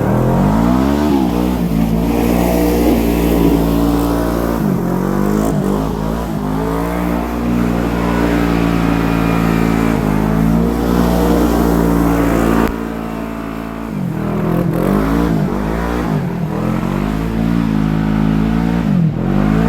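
Side-by-side UTV engine running under throttle, its pitch rising and falling over and over as it accelerates and eases off. The sound drops abruptly in level about two-thirds of the way through.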